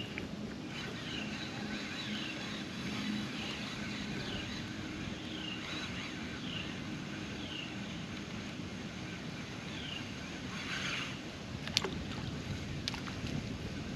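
A jon boat's motor humming steadily at low speed, with a series of short falling high chirps about once a second and a few sharp clicks near the end.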